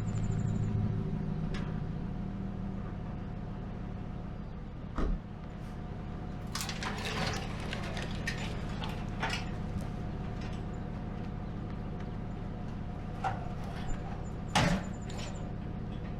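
A steady low mechanical hum with a few scattered knocks and clatters; the loudest knock comes about three-quarters of the way through.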